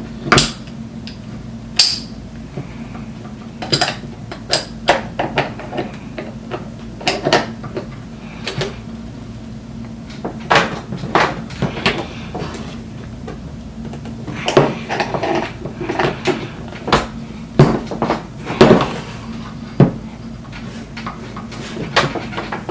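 Hand tools clinking and knocking against metal roller-skate hardware: irregular sharp clicks and clanks while a stubborn part is worked loose.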